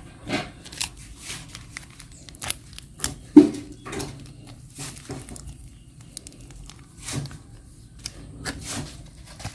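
Crinkling and tearing of plastic food packaging, with scattered small clicks and one sharp knock about three and a half seconds in.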